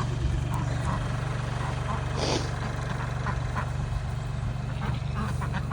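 Tractor engine idling steadily, with a brief rushing burst about two seconds in.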